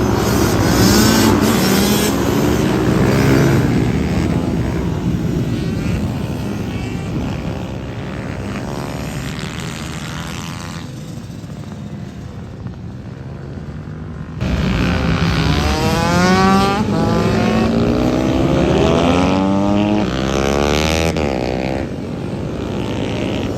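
Mini bike engines racing, their pitch rising and falling as they rev up and back off, several engines overlapping. About fourteen seconds in the level jumps suddenly.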